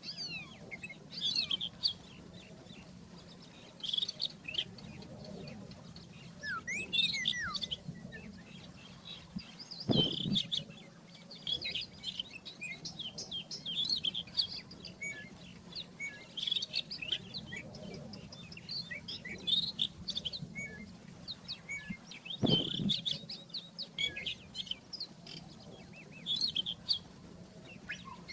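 Rufous-tailed scrub robin singing: short, rapid, varied song phrases repeated every second or two. Twice, about ten seconds in and again some twelve seconds later, a louder sound sweeps down low.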